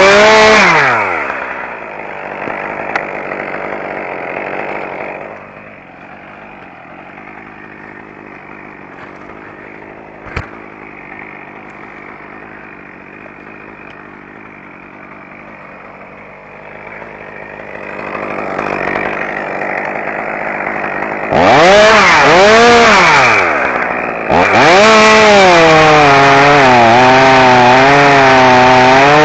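Two-stroke chainsaw drops from full throttle to idle about a second in and idles for about twenty seconds. It is then revved up hard, dips briefly, and runs at high speed to the end, its pitch wavering under load.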